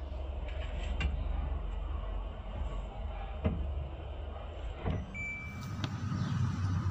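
Low steady rumble with a few sharp clicks and knocks, about one, three and a half, five and six seconds in: handling and tool sounds from work on a washing machine motor.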